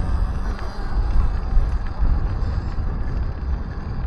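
Wind buffeting the microphone of an electric dirt bike riding along a dirt trail in eco mode, a steady low rumble with no engine note.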